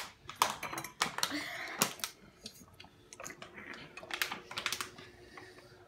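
Metal fork clinking and scraping against a ceramic bowl: a run of irregular light clicks and taps, several a second.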